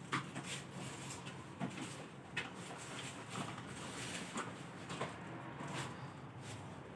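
Light taps and knocks at irregular moments, about one or two a second, from a small songbird moving about in its cage.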